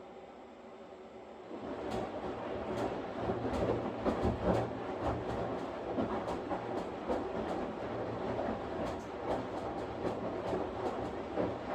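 Washing machine running: a steady motor hum, and about two seconds in the drum starts turning, bringing louder sloshing noise with many irregular rattling clicks and knocks.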